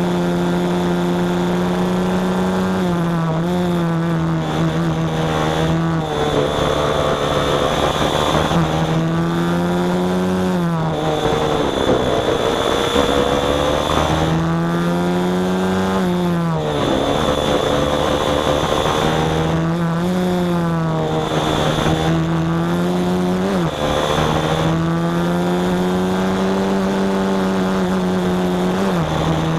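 Small engine running, its revs rising and falling again and again, about every three to four seconds.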